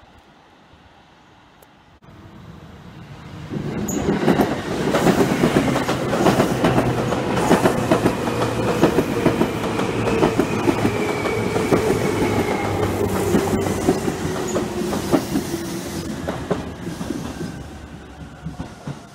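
Seibu Railway New 2000 series electric train passing close by, starting faint and becoming loud a few seconds in: rapid clickety-clack of wheels over rail joints, with a motor whine that slowly falls in pitch, easing off near the end.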